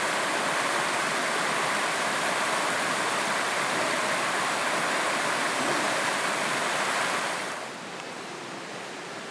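Steady rush of flowing river water. About three-quarters of the way through it drops suddenly to a quieter, duller steady hiss.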